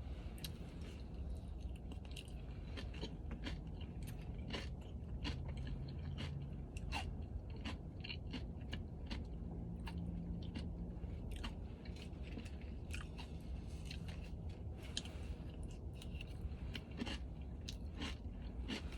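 Close-miked chewing of Dubai chocolate with pistachio cream and crunchy kataifi, full of irregular wet mouth clicks and smacks.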